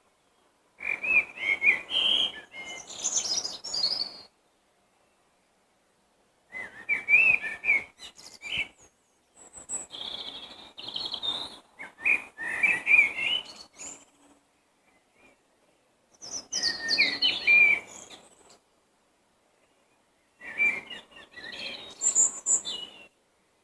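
Songbird song in five separate phrases of quick, varied chirping and warbling notes, each phrase two to four seconds long, with pauses of about two seconds between.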